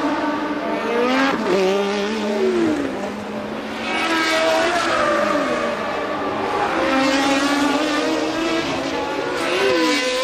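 1982 Formula One race car engines running at high revs, several at once, their pitch climbing and then dropping sharply several times as the cars change gear and brake.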